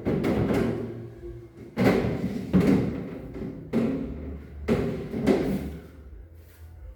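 A series of about six knocks and thuds, each with a short ringing tail, spaced irregularly over several seconds.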